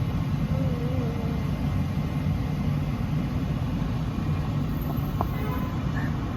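Steady low rumble of city street traffic, even throughout.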